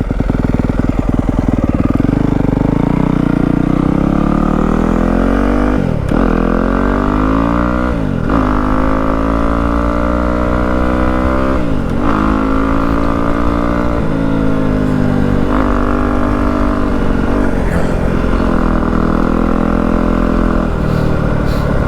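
Yamaha WR250F's single-cylinder four-stroke engine, breathing through a YZ slip-on exhaust, accelerating up through the gears. The pitch climbs and drops sharply at each shift, about six, eight and twelve seconds in, then settles into a steady cruising note with small rises and falls.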